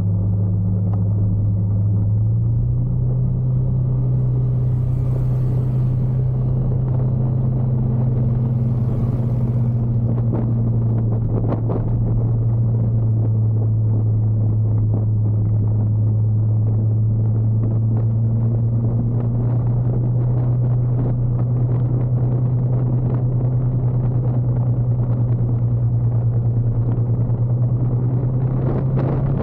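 Motorcycle engine running at a steady cruise, heard from on board. Its pitch steps up a little a couple of seconds in, then holds steady.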